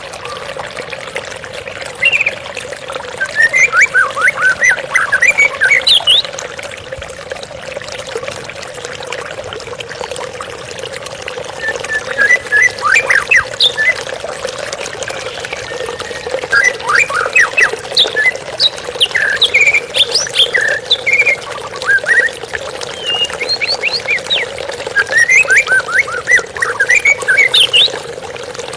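White-rumped shama singing in repeated bursts of quick high notes, a few seconds apart, over a steady sound of running water.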